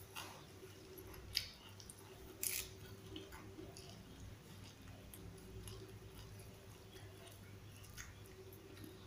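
A person chewing a mouthful of raw lamtoro (leucaena) leaves with rice: soft, wet mouth clicks, with two sharper clicks about one and a half and two and a half seconds in, over a faint steady hum.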